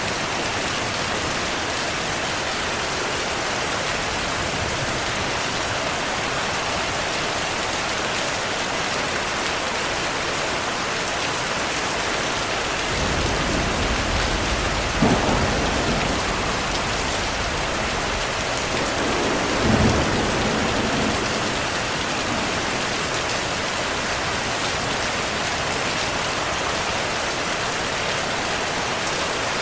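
Steady rain falling, with a roll of thunder rumbling in about halfway through. It peaks in two louder claps a few seconds apart, then dies away.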